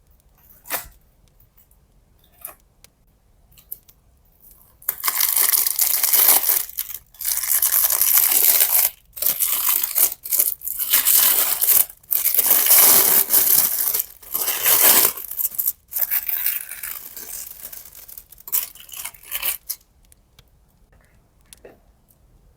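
Loud tearing in stretches of a second or two with short breaks, starting about five seconds in, easing after about fifteen seconds into lighter crinkles and taps.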